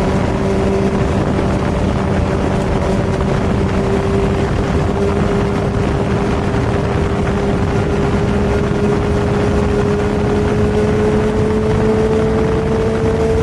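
Superbike engine running at a steady cruising speed, its pitch creeping slowly upward, under constant wind and road noise.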